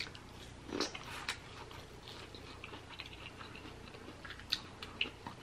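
Close-miked chewing of soft food, with wet mouth sounds and a few sharp mouth clicks.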